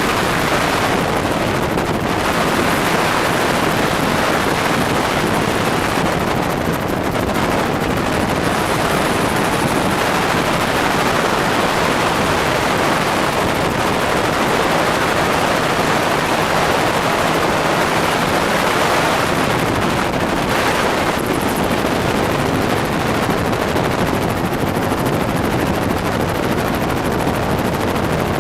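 Helicopter rotor and engine noise, loud and steady throughout.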